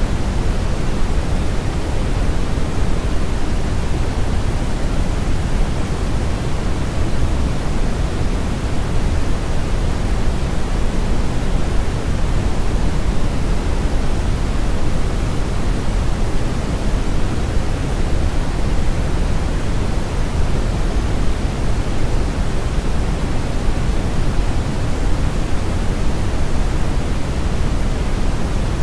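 Steady brown noise, a constant deep rushing hiss weighted heavily toward the low end, with no change in level.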